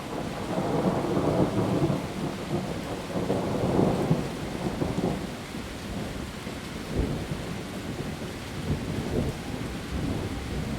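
Heavy rain falling steadily on leaves, with a low rumble of thunder swelling in the first half and fading by about five seconds in.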